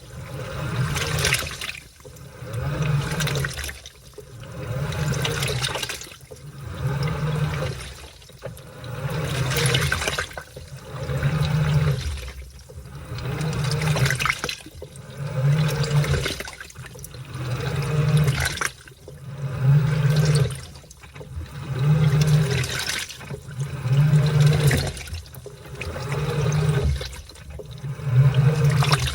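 Washing machine in its wash cycle: the drum turns in strokes about every two seconds, each with a motor hum and water sloshing through the laundry.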